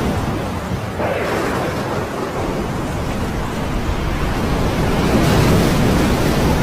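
Big ocean waves breaking and surging, with a fresh surge about a second in and another building near the end.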